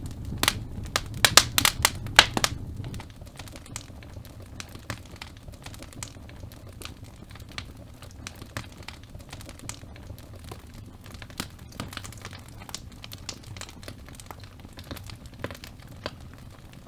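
Wood logs crackling and popping in a fireplace fire, with a cluster of loud pops in the first couple of seconds, then steady lighter crackling once a low rumble of flame drops away about three seconds in.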